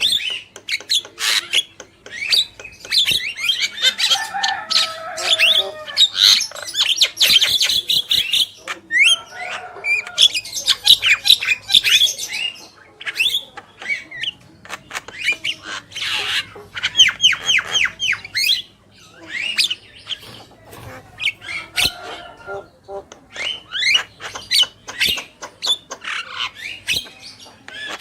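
Javan myna chattering: rapid harsh, squawking notes mixed with clicks and short rising whistles, in bursts separated by brief pauses.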